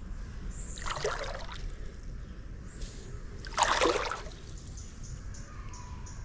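Water splashing twice in a shallow muddy stream, once about a second in and again more strongly near the middle, over a steady low background.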